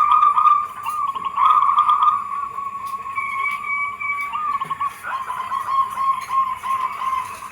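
Zebra doves (perkutut) cooing: a continuous run of rapid, trilling coo notes with no break.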